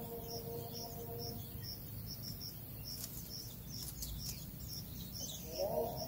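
High, short bird chirps repeated steadily, about two to three a second, with a lower drawn-out tonal sound at the start and again near the end.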